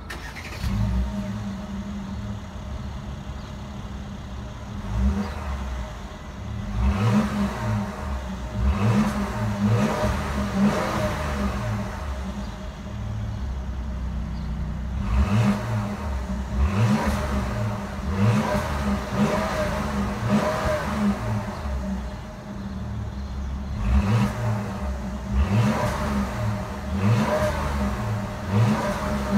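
Mercedes-Benz GLS450's 3.0-litre twin-turbo V6 starting up and settling to idle, then revved again and again with quick throttle blips that rise and fall back to idle.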